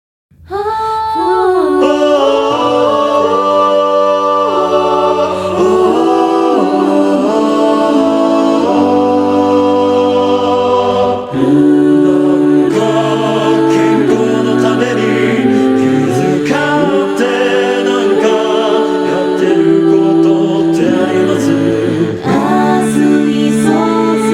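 Unaccompanied four-part mixed-voice choral singing, with two vocalists' overdubbed parts forming held chords from a low bass line up to a high soprano. The voices move together in slow block harmony, coming in about half a second in.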